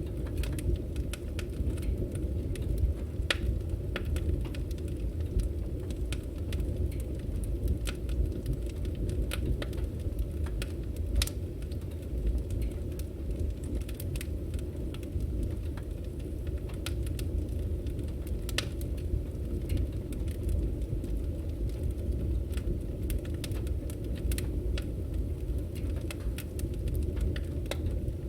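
Firewood burning: a steady low rumble of the flames with irregular sharp crackles and pops from the logs.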